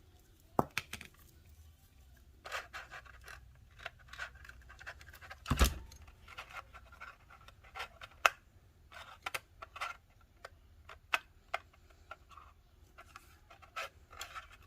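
Cardstock being cut and handled on a craft table: scattered small clicks and short paper rustles, with one heavier thump about five and a half seconds in.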